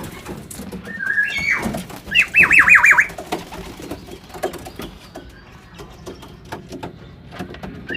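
Pigeons in a loft: a high call about a second in, then a quick run of five high, falling chirps, with scattered light taps and rustles.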